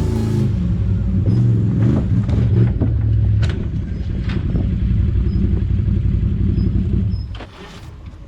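Motor vehicle engine running steadily, with a few sharp clicks, then dropping away suddenly about seven seconds in.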